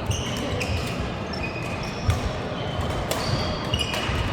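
Badminton play: sharp racket-on-shuttlecock hits, the loudest about two seconds in, and short high sneaker squeaks on the court floor, over a steady background din.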